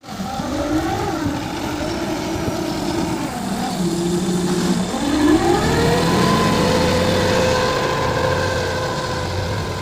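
A vehicle engine running and being revved: its pitch rises and falls in the first half, then climbs and holds at a higher steady pitch from about halfway.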